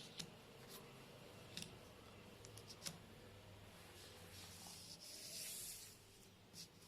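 Faint clicks of letter pieces being picked up and set down, a few separate taps, with a soft rustle about five seconds in.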